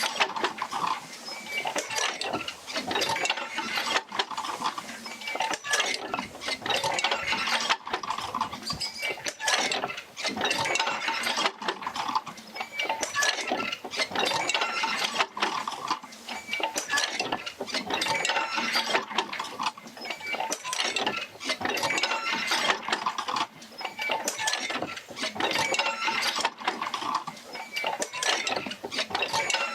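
Oil-field field wheel and its jerker lines working: a steady run of wooden and metal clanks, knocks and creaks that repeats in a slow cycle as the wheel rocks back and forth.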